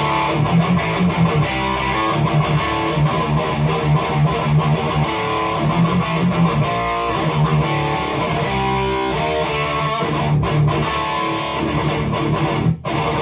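Electric guitar in D tuning played through a REVV G3 distortion pedal on its blue setting: a tight, high-gain metal riff with rhythmic low-string pulses, played without a noise gate. It stops briefly about ten seconds in and again near the end.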